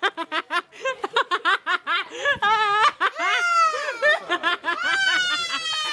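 Young children laughing in quick, high-pitched giggles, then a long high-pitched squeal near the end.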